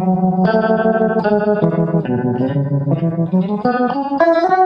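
Electric guitar chords played through a Shere Sound Whirligig analog modulation pedal with its rate turned to the top, giving a fast swirling, Leslie-like rotating-speaker sound. The chords change about every half second.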